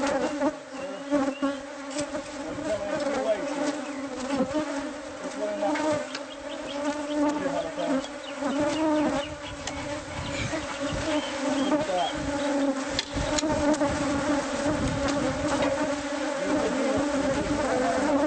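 A mass of honeybees buzzing steadily around a hive opened up inside a house wall, agitated by the removal ("these bees are angry"). A few short clicks or knocks sound over the buzz around the middle.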